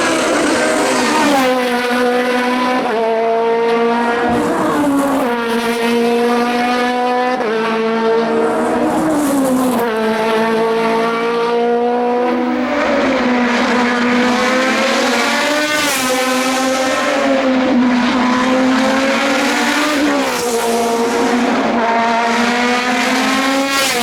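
Racing car engine running hard at high revs, its note holding or climbing and then dropping sharply again and again as it changes gear.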